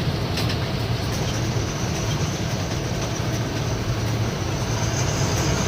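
Lorry engine running steadily as the truck moves slowly, a constant low drone with road and rattle noise over it.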